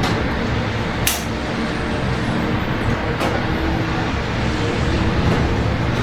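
Steady rain over a low rumble of city traffic, with two sharp ticks about one and three seconds in.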